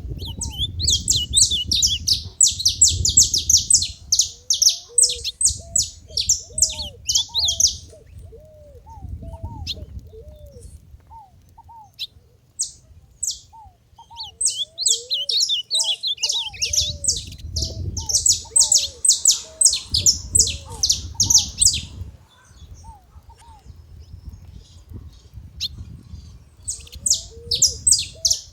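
Saffron finches chattering in fast, dense bouts of high chirps, one bout in the first eight seconds and another from about sixteen to twenty-two seconds, with short lower notes repeating underneath throughout.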